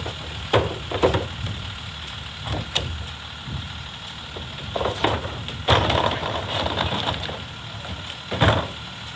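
Garbage truck engine idling steadily, with a series of sharp clanks and knocks and a longer stretch of rattling clatter in the middle, the kind made by the truck working bins and its packing gear.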